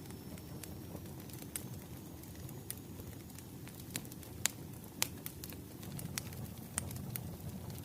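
Wood fire crackling, with a steady low rumble and irregular sharp pops, a few louder pops around the middle.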